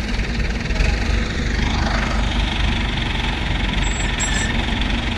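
Mahindra Yuvo Tech Plus 575 tractor's diesel engine running steadily at idle.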